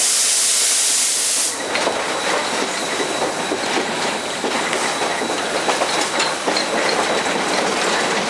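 Southern Railway 630, an Alco 2-8-0 steam locomotive, heard from its cab. A loud steam hiss cuts off about a second and a half in, leaving the clatter and rattle of the engine rolling on the rails and a thin steady high whine.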